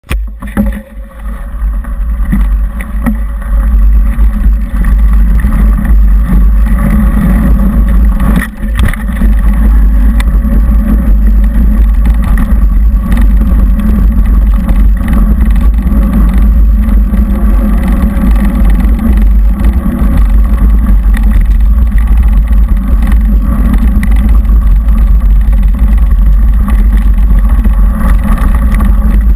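Mountain bike riding along a trail, heard through a mounted GoPro camera: a loud, steady, low rumble of wind and tyre noise, with a brief dip and a knock about eight seconds in.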